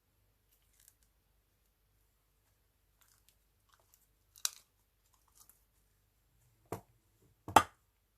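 A few short, sharp crackles and knocks from slime-making materials being handled, spaced seconds apart, the loudest a crunchy crackle near the end.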